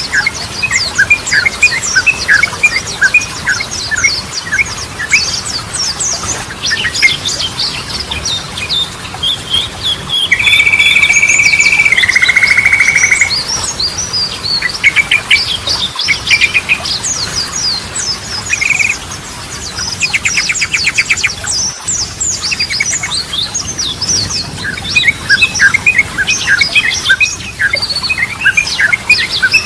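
Yellow-vented bulbul (trucukan) song: fast, chattering runs of short chirps. About ten seconds in comes a louder, buzzy steady trill lasting roughly three seconds that drops to a lower pitch for its last second.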